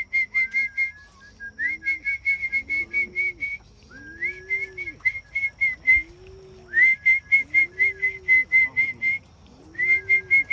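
Rapid whistled notes in bursts of about two seconds, some six notes a second, repeated five times: a pigeon keeper whistling to call young pigeons into the loft at feed time. Beneath the whistling, low rising-and-falling calls repeat about once a second.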